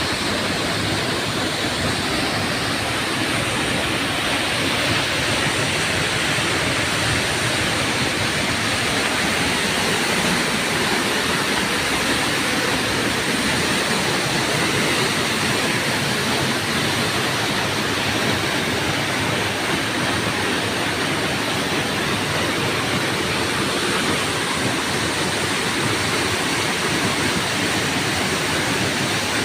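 Waterfall splashing and rushing steadily, an even wash of falling water with no breaks.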